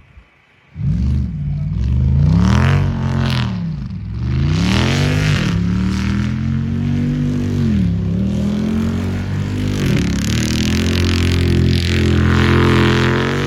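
Jeep Wrangler 392's 6.4-litre HEMI V8 revving up and down over and over, then held at high revs, while doing doughnuts in snow. It comes in about a second in, after near quiet.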